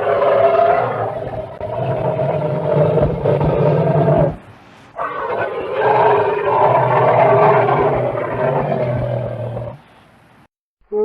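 Elephant calling: two long, low calls of about five seconds each, with a brief break between them.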